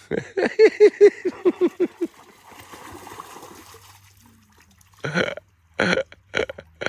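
A person laughing in a quick run of about ten short 'ha' pulses, then a few short bursts of noise near the end.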